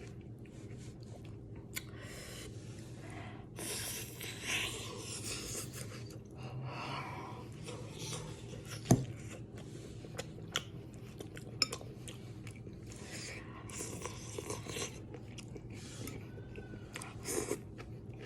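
Chewing and wet mouth sounds of someone eating, with a few sharp clicks of cutlery against a dish, the loudest about halfway through.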